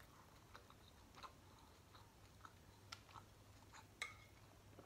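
Near silence with a few faint, scattered clicks of chewing as fried galunggong (round scad) is eaten by hand.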